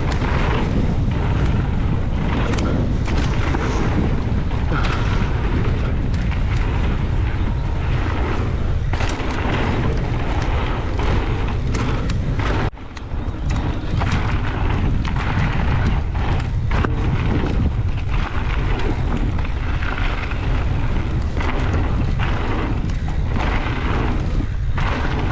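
Strong wind rumbling and buffeting on the microphone of a ride-along camera on an e-mountain bike ridden fast down a dirt trail, with tyre noise and frequent knocks and rattles from the bike over bumps. The rumble drops out briefly about halfway through.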